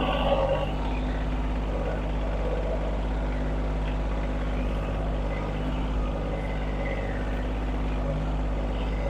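An engine running steadily at raised revs, its pitch holding even throughout.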